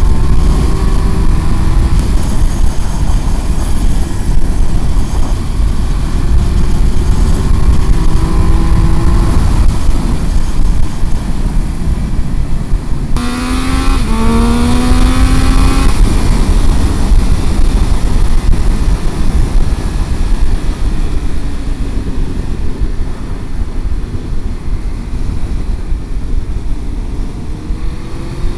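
Motorcycle being ridden on the road, with heavy wind rush on the microphone. The engine's note rises and falls with the throttle, rising most strongly about halfway through.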